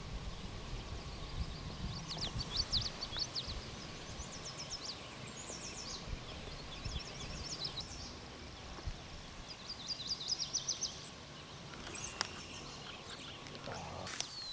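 Small birds singing: repeated phrases of quick, high-pitched notes over a low outdoor background. A few sharp clicks near the end.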